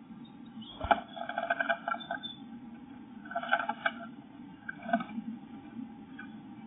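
A tit dropping into a wooden nest box with a single knock about a second in, then scratching and tapping about on the floor of the box in short bursts.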